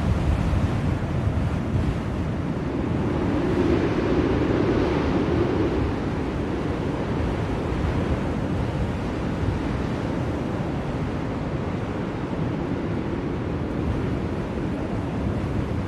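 Blizzard wind blowing in a steady rush, swelling in a gust a few seconds in.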